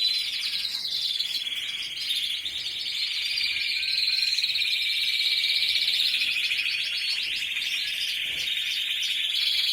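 Spanish timbrado canary song: an unbroken run of fast, high trills and rolls whose pattern changes every second or two.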